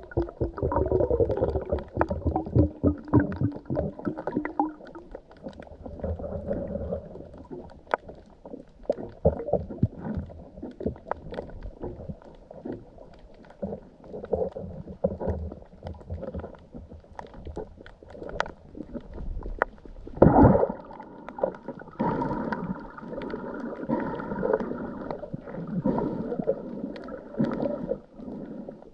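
Muffled underwater sound: irregular gurgling and bubbling with small knocks and rumbles, as picked up by a camera under the sea, with a louder rush about two-thirds of the way in.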